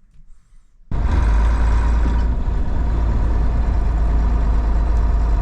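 Diesel engine of a 1989 Scania 93M lorry running steadily with a deep rumble, cutting in suddenly about a second in.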